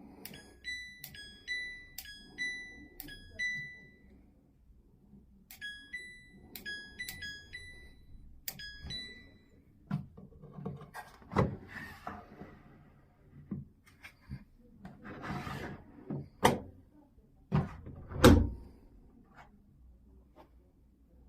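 Washing machine control panel beeping as its buttons are pressed or its program dial is turned: a quick run of short electronic beeps, a pause, then another run. After that come several thumps and knocks, the loudest about three seconds before the end.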